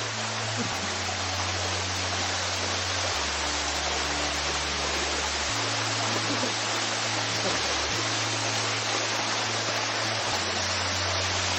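Waterfall pouring down, a dense, steady rush of falling water.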